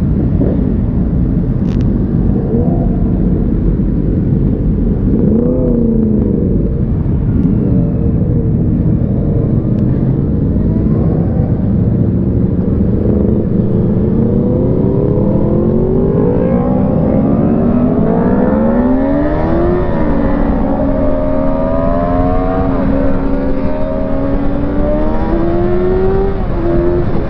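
Kawasaki ZX-6R 636's inline-four engine accelerating through the gears, its pitch climbing and then dropping at each upshift, over heavy wind rush on the microphone.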